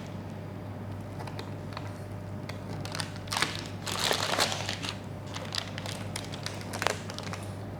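Crackling and crunching as the freshly baked chocolate praline brownie is handled and cut. There are scattered crackles, then a longer, denser crunching stretch about three to four and a half seconds in, and one sharp crack near the end.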